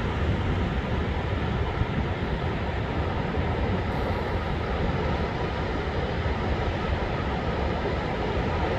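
Storm surf on a sand beach under a high-wave advisory: a steady, dense rush of breaking waves with a deep rumble underneath, no single break standing out.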